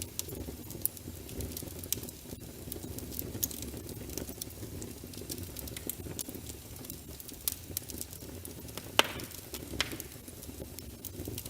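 Wood logs burning in a fireplace: a steady low rumble of flames with irregular sharp crackles and pops, the loudest pop about nine seconds in.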